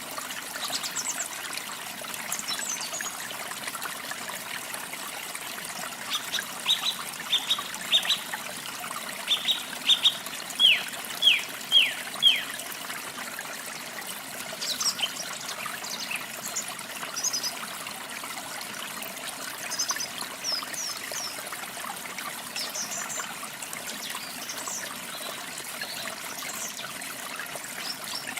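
Small birds chirping over a steady trickle of running water. A run of quick, sharp chirps comes in the middle, ending in four louder downward-sliding notes, with scattered higher chirps after.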